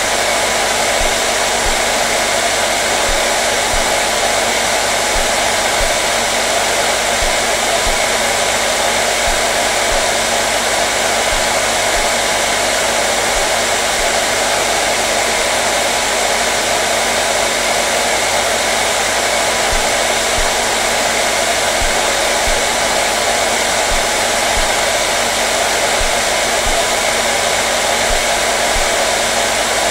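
Hair dryer running steadily: a constant, unchanging rush of blown air with a faint motor hum underneath.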